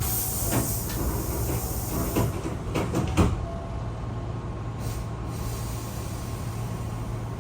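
Commuter train car's doors working at a station stop: a loud hiss of air for the first couple of seconds, a run of knocks ending in a loud thud about three seconds in, and a shorter hiss near five seconds. A steady low hum from the standing train runs underneath.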